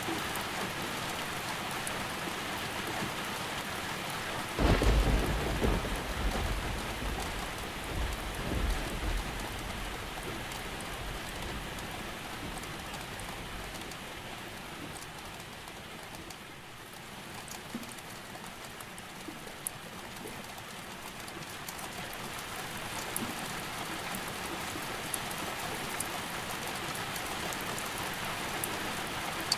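Steady rain falling, with a thunderclap about five seconds in whose low rumble swells again and fades out over the next several seconds.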